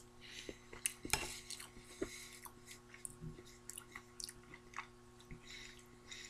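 Faint chewing of a mouthful of soft turkey-and-stuffing casserole: quiet wet mouth sounds and small clicks over a faint steady hum.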